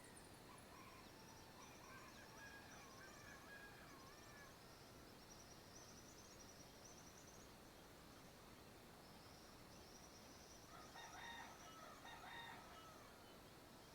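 Faint rural dawn ambience: a distant rooster crows once, about two seconds long, near the end, over scattered chirps of small birds and a steady high insect buzz.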